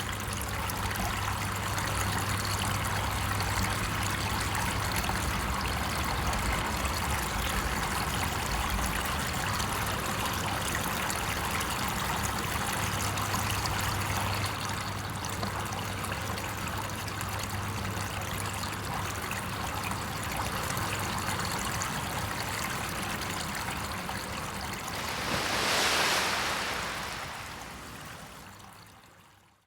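Steady sound of running water, like a trickling stream. Near the end it swells briefly, then fades out.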